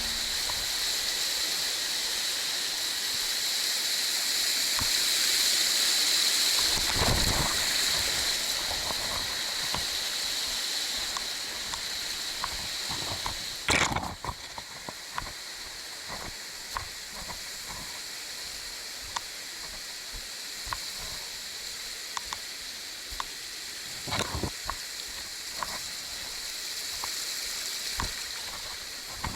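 Rushing water of a mountain stream and waterfall, a steady hiss that drops in level about halfway through, with scattered short clicks and a few louder knocks.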